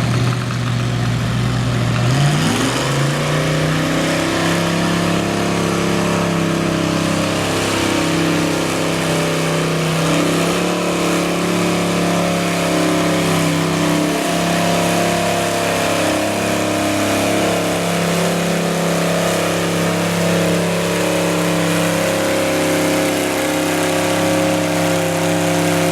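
Small-block Chevy V8 in a Cub Cadet pulling tractor, revving up about two seconds in and then holding high revs under load as it drags the weight sled down the track.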